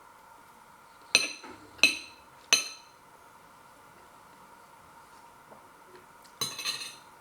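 Cutlery clinking against a dish three times in quick succession with a short ringing after each, then a brief scraping clatter near the end.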